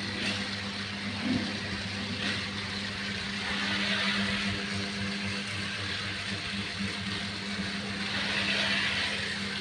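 Small electric motor of a toy City Truck running steadily along its track, a whirring hum with gear noise that swells a little twice.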